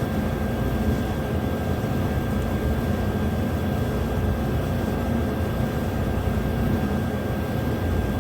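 Steady low mechanical drone with a faint constant whine above it, unchanging throughout: continuous background machinery running in the shop.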